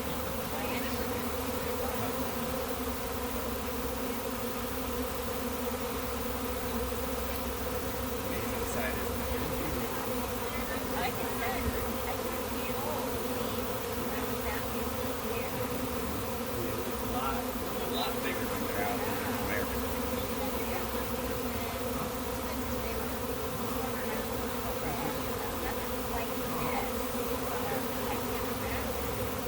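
Many honey bees of a swarm buzzing together in one steady, even hum.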